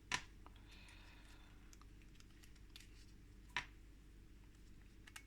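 Near silence broken by two faint clicks, one just after the start and one about three and a half seconds in: small screws and a tool being handled as the extractor fan's rubber silent-block mounts are unscrewed.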